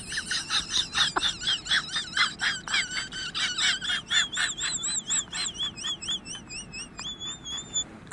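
A bird chirping rapidly, about four short high chirps a second, the calls turning into a wavering warble in the second half.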